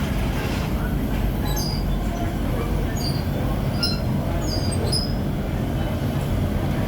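Metalworking machinery running with a steady low rumble, and short high-pitched squeaks of metal on metal coming every second or so.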